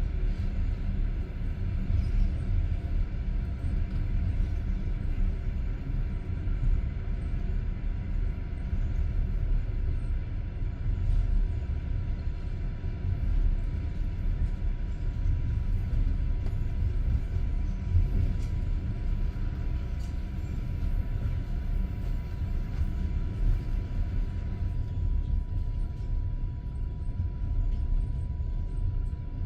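Low steady rumble of a passenger train heard from inside a carriage, with a thin steady whine running through it.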